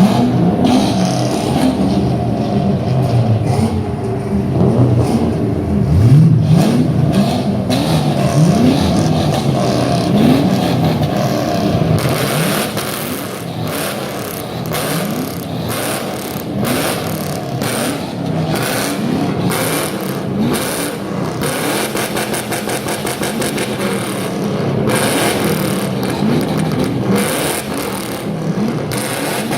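Several 4.6-litre V8 engines revved through their exhausts in turn, with repeated quick throttle blips that rise and fall in pitch.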